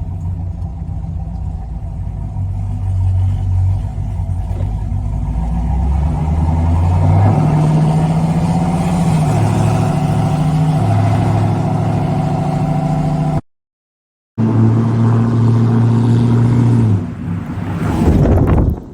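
1979 Chevrolet C10 pickup engine running and pulling, its note climbing as it accelerates. The sound cuts out for about a second two-thirds of the way through, then the engine returns, eases off and swells again at the end.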